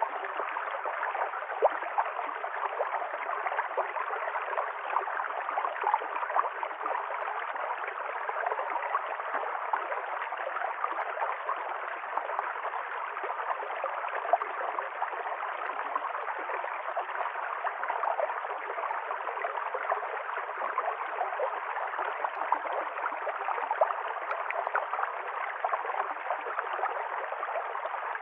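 Stream water flowing steadily over rocks, a continuous rushing with many small splashes and gurgles throughout.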